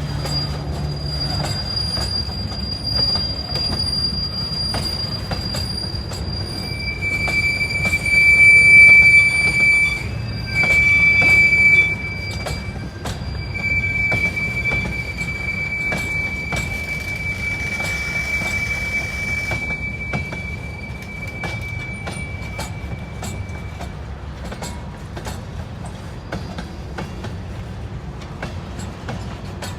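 Freight train cars rolling past with their wheels squealing in steady high pitches, loudest from about eight to twelve seconds in and fading out a little past halfway, over the rumble and clatter of wheels on the rails.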